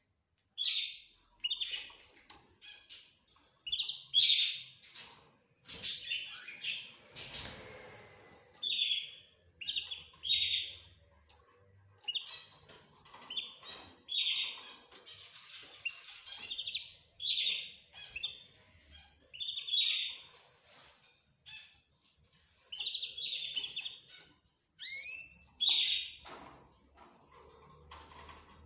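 Pet cage birds (budgerigars, rosy-faced lovebirds, zebra finches and a canary) calling back and forth in short, sharp chirps, one after another, with a few gliding calls near the end.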